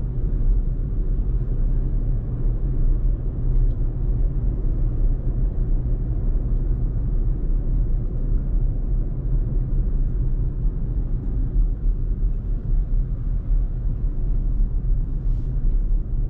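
Steady low road and tyre rumble of a Tesla cruising on the freeway, heard from inside the cabin, with no engine note.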